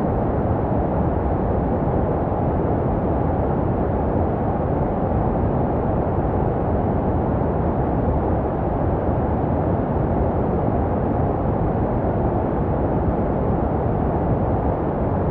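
Steady, muffled white noise with most of its energy in the low range and little treble, unchanging throughout. It is a baby-sleep noise track shaped to resemble the sounds heard in the womb.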